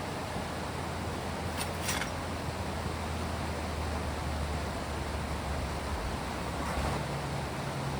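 Steady rushing of rain and flowing river water, with a low hum beneath it that shifts higher near the end, and two short clicks about two seconds in.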